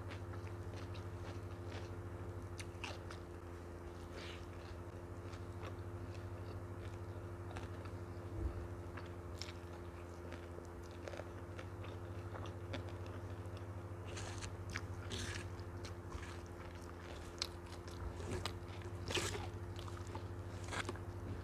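Close-miked chewing and mouth sounds of someone eating fried noodles and rice by hand: irregular soft, wet clicks and smacks, with a few louder ones near the end, over a steady low hum.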